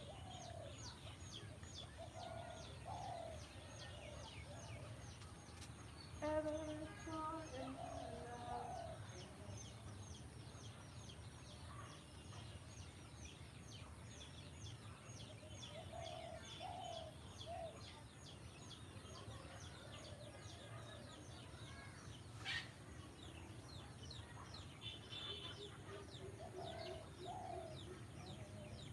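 Faint birdsong: a high, short chirp repeating about three times a second throughout, with lower, separate calls now and then and a louder call about six seconds in.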